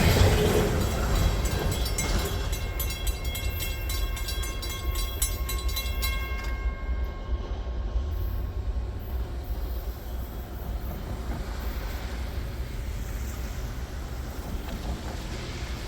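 Freight train cars rolling past: a steady low rumble with rapid, regular wheel clicks and a high steady ringing for the first six or so seconds. The ringing and clicks then stop and the rumble slowly fades as the train draws away.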